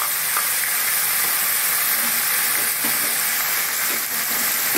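Freshly added chopped tomatoes sizzling in hot oil in a kadhai: a steady hiss.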